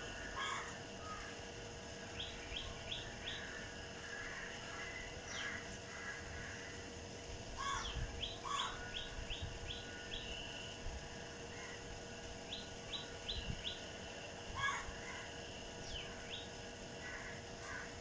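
Birds calling: a few harsh calls, and several quick runs of four to six short chirps, over a faint steady hum.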